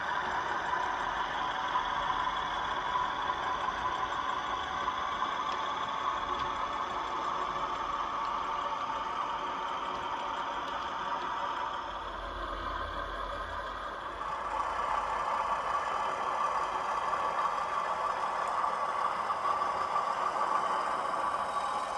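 Hornby 00 gauge Class 31 model locomotive running, its DCC sound decoder playing a diesel engine sound. The sound is steady, dips briefly about twelve seconds in, then comes back a little louder.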